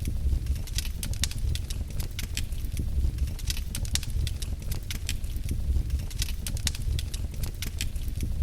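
Wood fire in a fireplace crackling, with frequent irregular snaps and pops over a steady low rumble.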